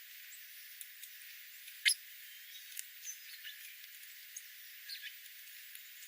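Small wild birds chirping: scattered short, high chirps and ticks over a steady hiss, the sharpest one about two seconds in.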